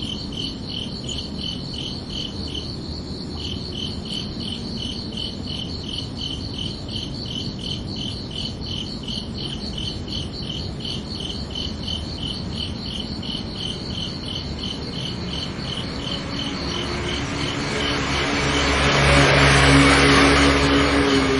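Crickets chirping in a steady, even pulse of high notes, a few a second. Near the end a vehicle passes by: its noise swells to the loudest point and then fades while the chirping carries on.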